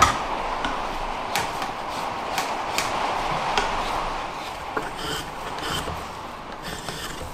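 Steady rain falling on a workshop roof and window, with scattered drops tapping sharply; a single loud knock right at the start.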